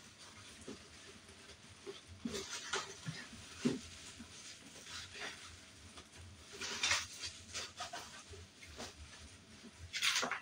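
Cardboard and foam packing rustling and scraping as it is worked out of a box, in irregular swishes with a short knock about a third of the way in and louder scrapes near the middle and end.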